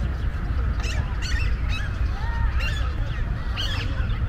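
Birds calling: a string of short, squawky chirps, several in quick succession, over a steady low rumble.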